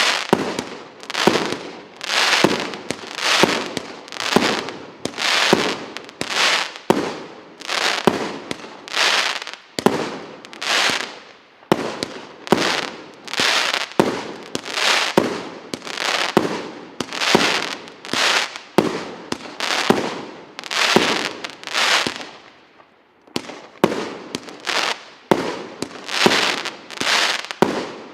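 Consumer firework battery (cake) firing shot after shot, about one and a half bangs a second, each bang fading quickly. There is one brief gap about three quarters of the way through.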